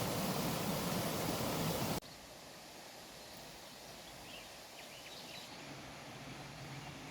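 Waterfall rushing with a steady roar that cuts off abruptly about two seconds in. It gives way to a much quieter outdoor hiss with a few faint bird chirps.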